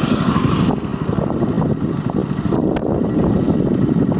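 A vehicle running along a road, with a steady low rumble and wind buffeting the microphone.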